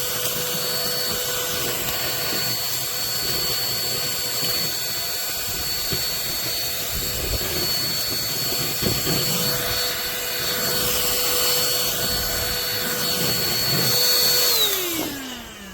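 Cordless handheld vacuum cleaner running with a steady high whine, its nozzle making a few low bumps along the way; near the end it is switched off and the motor winds down in a falling whine.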